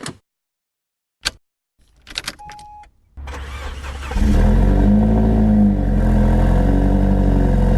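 Opel Astra J OPC's turbocharged 2.0-litre four-cylinder engine cranking about three seconds in, catching a second later and settling into a steady idle. Before it, a few short clicks and a brief beep.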